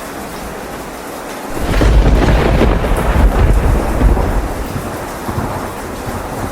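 Steady rain with a thunderclap about a second and a half in: a loud, deep rumble that swells, rolls for about three seconds and fades back into the rain.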